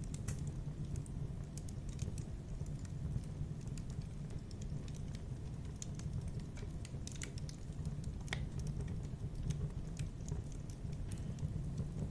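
Wood fire in a fireplace crackling: irregular sharp pops and snaps over a steady low rumble of the flames, with one louder pop about eight seconds in.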